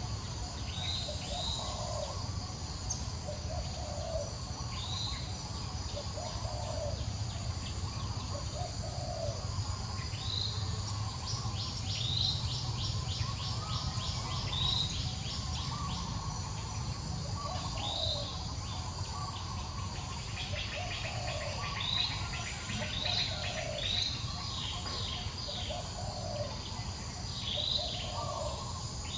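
Birds calling: a short high chirp repeated every second or two, with a lower note repeating between them. A fast insect-like trill comes in twice, all over a steady low rumble.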